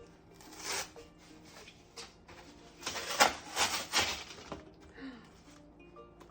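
A package being torn open by hand: short ripping rasps of packaging, one about a second in and a quick run of four about three to four seconds in.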